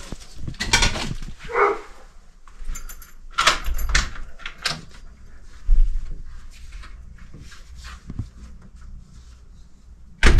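A dog barking and whining, among sharp knocks and clatter.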